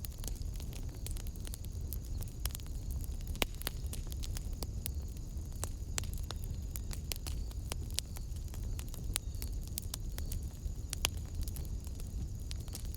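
Wood fire burning in a fireplace: a steady low rumble of the flames with frequent irregular pops and crackles.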